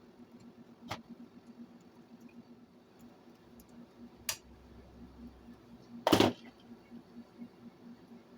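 A few sharp clicks and one louder short knock about six seconds in, from small parts and tools being handled on a workbench, over a steady faint hum.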